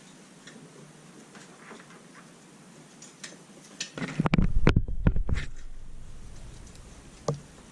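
Handling noise from the LiPo battery and its balance-lead wires being worked by hand: faint scratchy clicks and taps, then a cluster of loud knocks and thumps about four seconds in, and one more sharp tap near the end.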